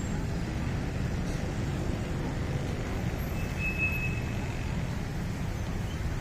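Steady road traffic noise, a continuous rumble of passing vehicles, with one short high squeal about three and a half seconds in.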